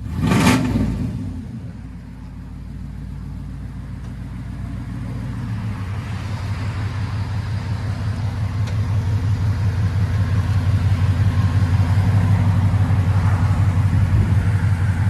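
Chevy 5.7 L V8 with long tube headers and straight-piped true dual exhaust, idling with a low, pulsing rumble that grows louder through the middle and then holds steady. A brief loud burst of noise comes right at the start.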